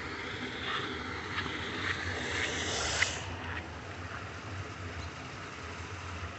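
Water rushing steadily into a cleared storm drain from a flooded road, a hissing flow with a few light clicks in the first three seconds, a little fainter after that.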